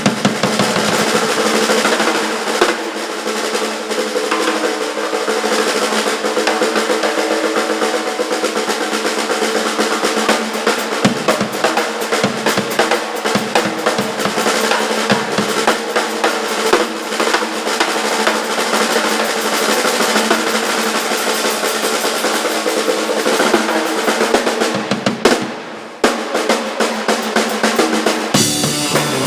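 A rock band's drum kit playing a busy, snare-heavy pattern with rolls, over sustained bass and guitar. The band briefly drops out near the end, then comes back in.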